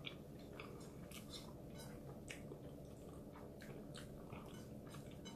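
A person chewing a mouthful of rice and cooked vegetables, with faint, irregular wet mouth clicks and smacks over a faint low hum.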